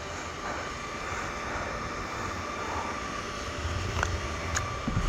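Steady drone of an enduro motorcycle running along the trail, with a couple of sharp knocks about four seconds in.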